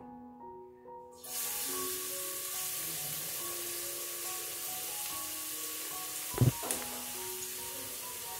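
Minced shallots and garlic sizzling in hot cooking oil in a frying pan: a steady sizzle that starts about a second in, as they are scraped into the oil. A brief double knock comes about two-thirds of the way through.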